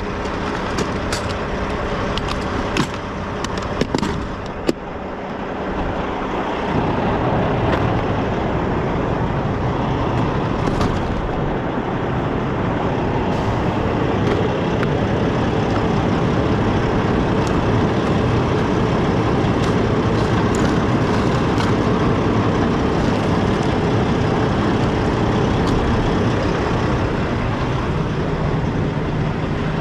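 Semi truck's diesel engine idling under scattered clicks and rattles of rummaging through things. About six seconds in, a louder steady rush of heavy vehicle noise builds up and stays.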